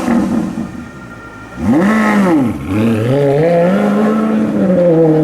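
Maserati Quattroporte GTS's 4.7-litre V8 through a Larini sports exhaust. It gives a quick rev blip about two seconds in, then pulls under acceleration, rising in pitch and settling to a steady note with a small drop near the end.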